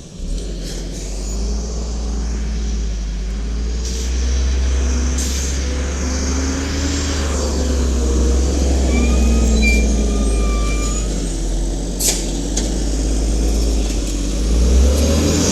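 1994 WhiteGMC garbage truck's Cummins L10G natural-gas engine running with a deep steady rumble, its note rising and falling. A brief high squeal comes about nine seconds in, and a sharp click about twelve seconds in.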